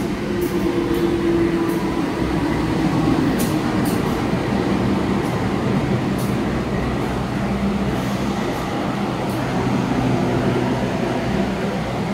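CC 206 diesel-electric locomotive running close by as it draws into the platform, its engine drone steady, followed by a rake of passenger coaches rolling past with scattered clicks of wheels over rail joints.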